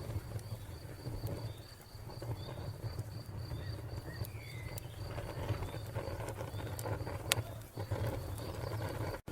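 Wood fire crackling, with a low rumble and scattered sharp pops, the loudest about seven seconds in. A cricket chirps in quick, even pulses, about five a second, and a bird gives one short downward call about four seconds in.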